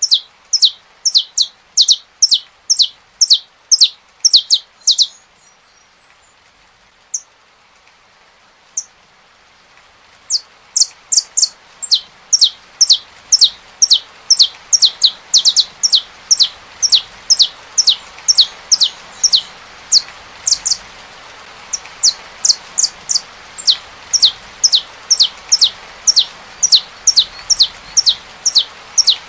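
Saffron finch singing a long series of sharp notes that sweep downward, about two a second. The series pauses for several seconds a few seconds in, with only a couple of single notes, then resumes. Beneath it runs a steady hiss of rain.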